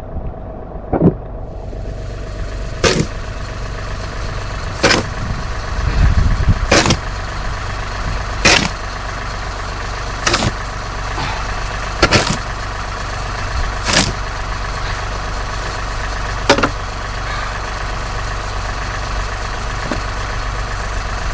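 Snow shovel scraping and striking the pavement roughly every two seconds, over a steady engine hum that stays on throughout.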